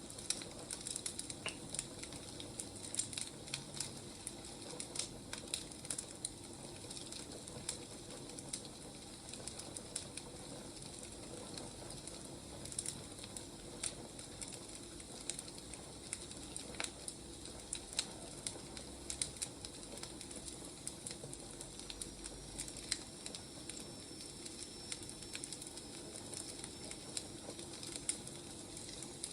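Wood fire crackling: an irregular stream of sharp snaps and pops over a soft steady hiss.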